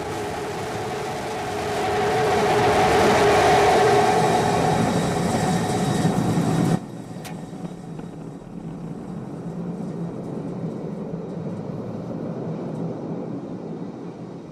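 Starship SN15's Raptor rocket engines firing during the landing burn, a steady rushing roar. It swells over the first few seconds, drops off abruptly about seven seconds in, then carries on more quietly and fades near the end.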